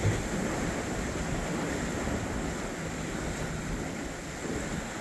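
Steady wind and inlet water noise, with wind buffeting the microphone and a low thump right at the start. Under it runs the faint low drone of a passing boat's engine.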